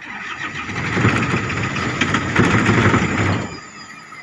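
Car engine being cranked over by its starter motor without catching, for about three seconds before it stops: the engine has stalled in deep floodwater.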